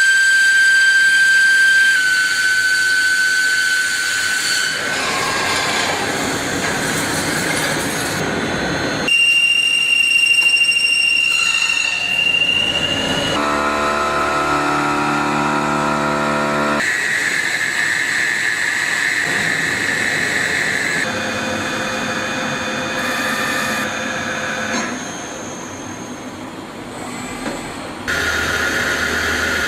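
CNC mill-turn machine cutting metal: a steady high-pitched whine from the spindle and tool at work, with machining noise under it. The pitch and sound change abruptly every few seconds as one cutting operation gives way to another.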